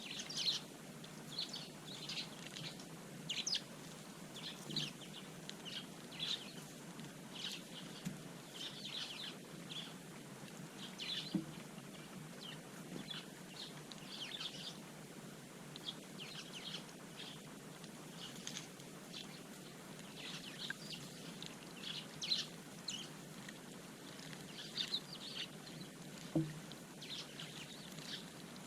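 Eurasian tree sparrows chirping, short repeated notes from several birds, irregular and overlapping.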